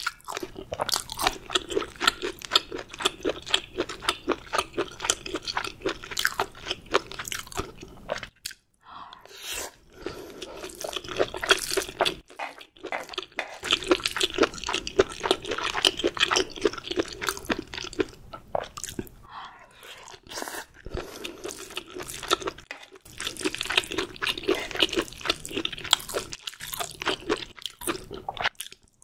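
A person chewing food close to the microphone: a steady run of wet mouth clicks and smacks with a few brief pauses.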